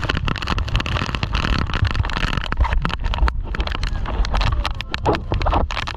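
Wind buffeting the microphone over a boat's motor and splashing water, on a banana boat towed across the water.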